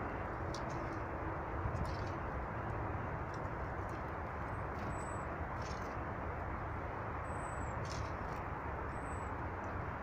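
A few short, thin, high bird calls from small songbirds, about halfway through and twice near the end, with some soft ticks, over a steady low background rush.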